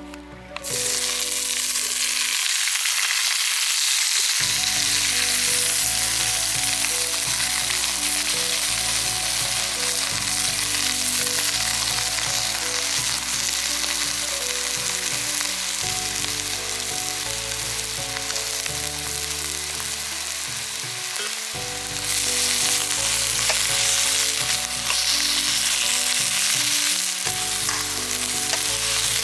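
Food sizzling as it fries in a pan, a dense steady hiss that eases slightly and comes back up about three-quarters of the way through. Background music plays underneath.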